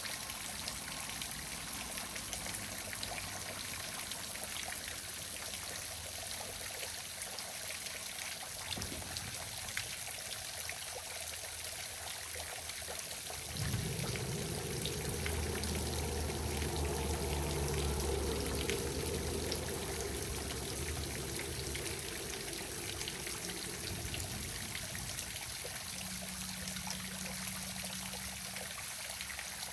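Waterfall: water pouring and trickling in a steady wash. About halfway through, a low rumble starts suddenly, rises over the water for about ten seconds, then fades.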